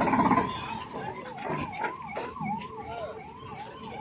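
Electronic siren-like warble, a fast up-and-down swooping tone repeating about two to three times a second, after a louder mix of noise that drops away about half a second in.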